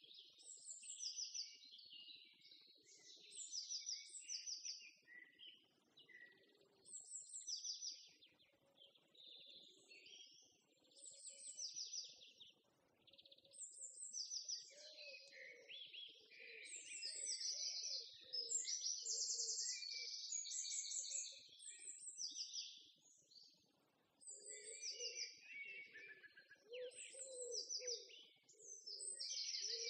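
Several small songbirds chirping and trilling over one another in short bouts, with a lower repeated call underneath that grows stronger in the second half.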